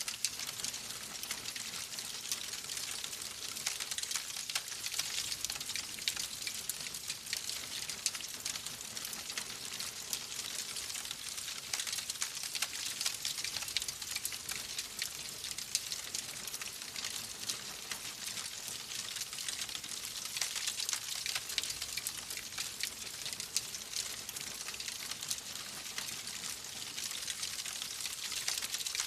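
Wood fire crackling in a fireplace: a steady hiss thick with small, rapid pops and snaps, with no single loud crack standing out.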